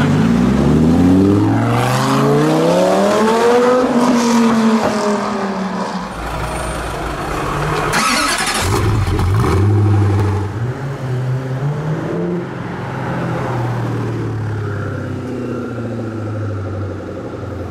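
A car engine accelerating hard, its pitch climbing for about four seconds and then falling away. About eight seconds in there is a short, loud rush of noise, after which an engine runs on at a lower, steady pitch.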